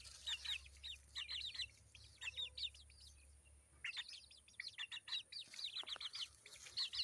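Aseel chicks peeping: many short, high chirps, each sliding down in pitch, coming in quick clusters with a pause about three seconds in.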